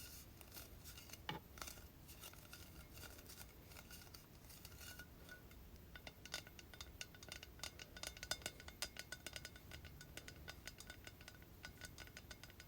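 Light tapping on hair product bottles and jars: many faint, sharp taps, coming thicker and faster from about halfway through.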